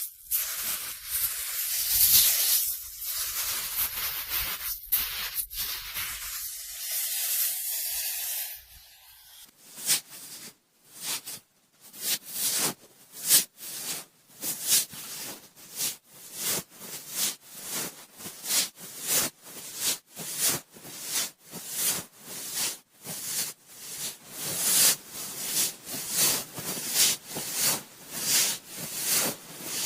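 Cotton swab swirling and rubbing against the ear of a binaural microphone. A continuous scratchy rub lasts about nine seconds, then after a brief lull gives way to repeated rubbing strokes about twice a second.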